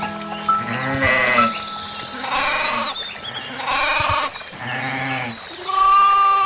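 About four short, quavering bleats from a sheep or goat-like animal, spaced roughly a second or more apart, over background music with sustained tones.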